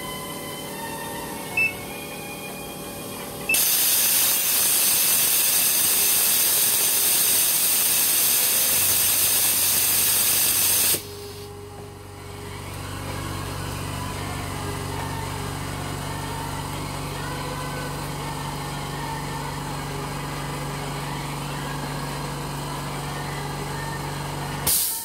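Phone-repair bench machine: a loud, steady hiss of blowing air starts suddenly and stops abruptly about seven seconds later, followed by a steady low machine hum. Faint music plays underneath.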